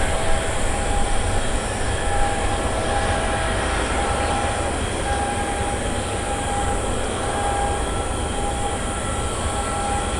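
Boeing 777-200 jet engines running steadily: a loud, even noise with a deep rumble underneath and a high whine on top.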